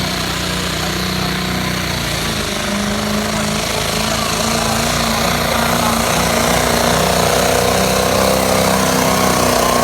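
Modified diesel pickup engine with a mechanical injection pump running hard at high revs, a loud, steady, fast-pulsing exhaust sound that grows slightly louder.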